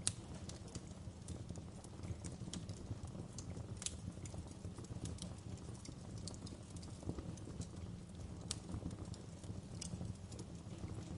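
Fireplace crackling: irregular sharp pops and snaps over a steady low rumble of the burning fire.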